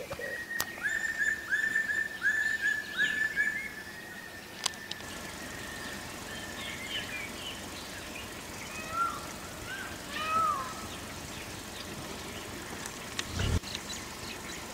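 Forest birds calling: one bird gives a run of about six whistled notes, about two a second, over the first few seconds, followed by scattered short chirps. A brief low thud near the end.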